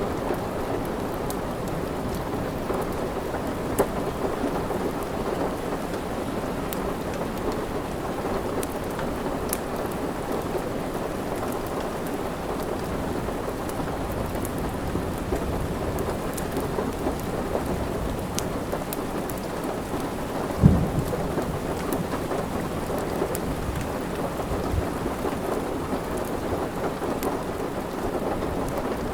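Steady heavy rain, with the small sharp crackles of a wood fire scattered through it. There is one sharp low thump about two-thirds of the way through.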